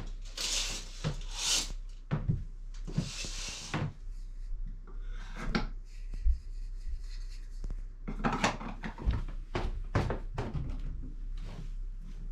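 Household handling sounds: a run of light knocks and taps, with two stretches of rustling or scraping in the first four seconds.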